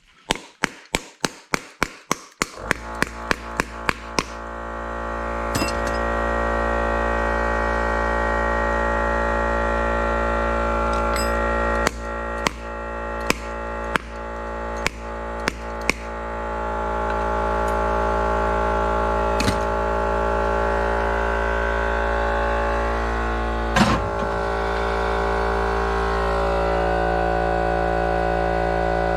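An electric motor running with a steady hum that builds up over the first few seconds, after a quick run of sharp clicks at the start. Further clicks about one and a half a second apart come in the middle, and there are two single knocks later on.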